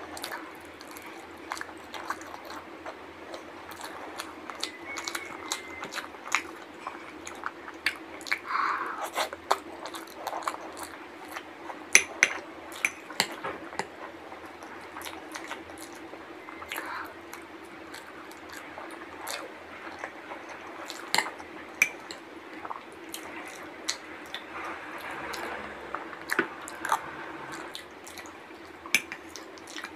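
Close-miked wet chewing and slurping of milky sewai vermicelli, with frequent sharp clicks of a spoon against a glass bowl. A faint steady low hum runs underneath.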